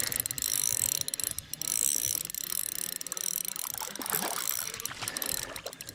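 Fishing reel clicking and ratcheting in a dense run of fine ticks while a hooked fish is played on light 4-pound line.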